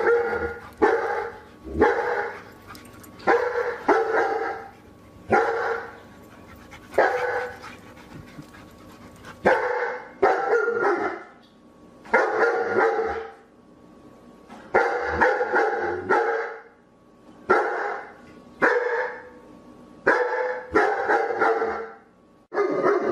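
A dog barking over and over, the barks often coming two or three in quick succession with short pauses between the clusters.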